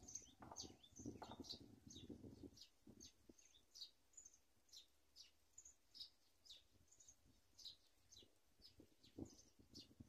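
Faint, thin, high-pitched bird calls: short, slightly falling notes repeated about once or twice a second. A low rumble underlies the first two and a half seconds, then drops away.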